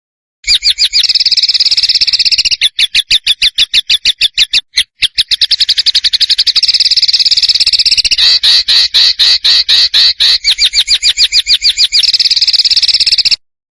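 Small songbird song as used for masteran: rapid runs of sharp, high repeated notes, several a second, with a couple of brief breaks. After about eight seconds the notes become a coarser series, and the song cuts off suddenly shortly before the end.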